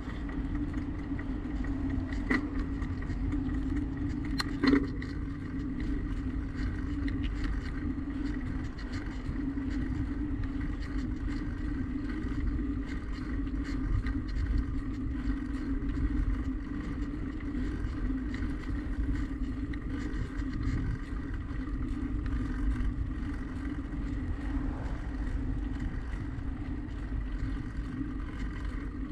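Riding noise from a bicycle under way: a steady low rumble with a constant hum, and two sharp clicks, about two and about five seconds in.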